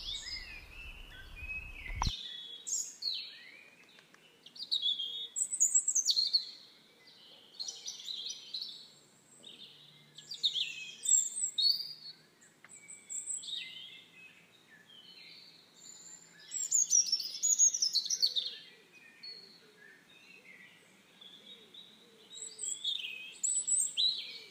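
Songbirds singing: bursts of quick, high, chirping phrases a second or two long, coming every few seconds with short pauses between.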